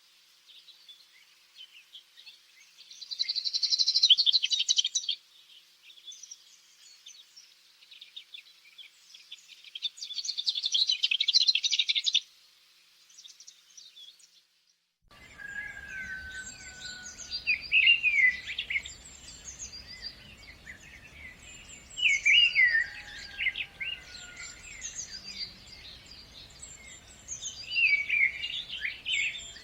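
Songbirds singing. Two long, rapid high trills come in the first half, then after a brief break a different bird's song phrase repeats about every five seconds over faint background hum.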